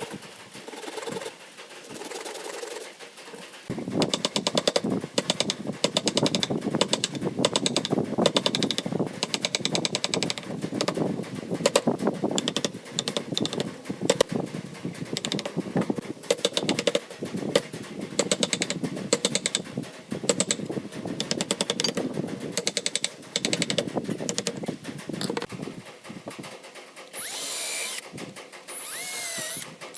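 Power tool working pallet wood, running unevenly with many short clicks and knocks.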